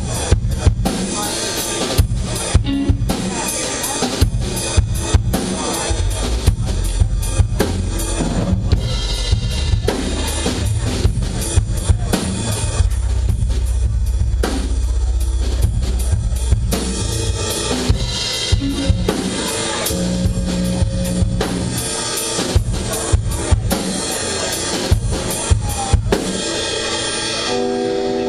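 A drum kit played as part of a live rock performance: a steady beat of bass drum, snare and cymbal hits over a low bass line.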